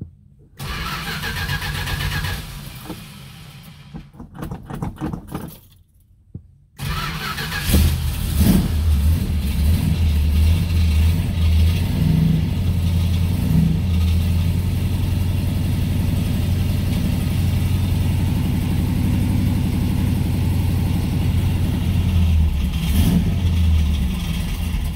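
The 440 V8 of a 1968 Dodge Charger R/T being started: the starter cranks it on and off, with a short pause. About seven seconds in it catches with a quick rev, then settles into a steady idle.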